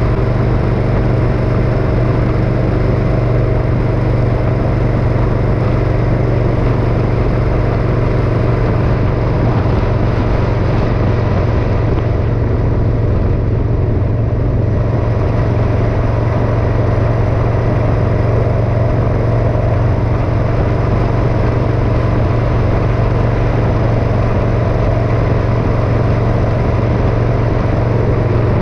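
Motorcycle engine running at a steady cruise, a constant drone that holds the same pitch throughout.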